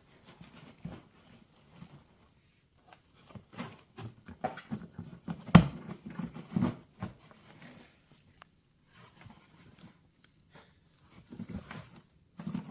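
A cat scrabbling and pushing at a box as it tries to get in: irregular scratches, scuffs and knocks, the loudest knock about five and a half seconds in.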